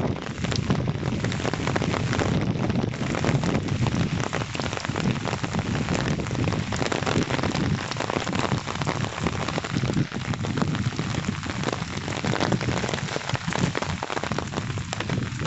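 Steady rain falling, a dense, even hiss made of countless small drop impacts.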